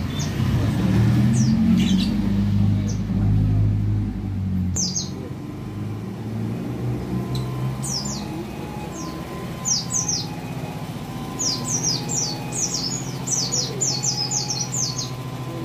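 Oriental white-eyes (pleci) calling: high, thin down-slurred notes, a few scattered ones at first, then a quick chattering run of them near the end. Under them, a low rumble of passing road traffic is loudest in the first few seconds.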